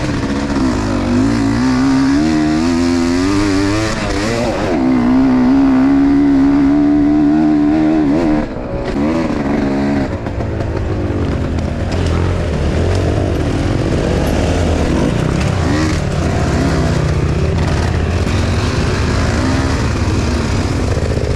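Enduro motorcycle engine revving hard and unevenly, held at high revs for a few seconds, then dropping abruptly about eight and a half seconds in to lower, steadier running.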